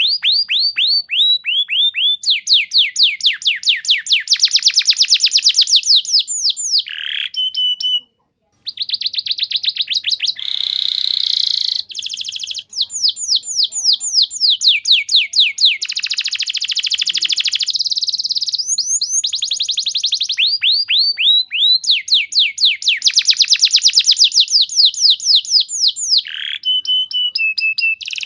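Domestic canary singing a long, continuous song of rapid trills, each phrase a fast run of falling notes, switching to a new phrase every second or two, with a short break about eight seconds in.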